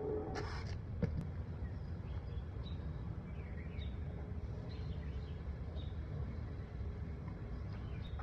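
Faint outdoor background: a steady low rumble with scattered faint bird chirps, and a single light click about a second in.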